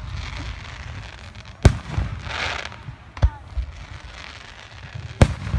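Aerial fireworks bursting: three sharp bangs, loud ones about a second and a half in and near the end with a weaker one between, and a brief hiss after the first.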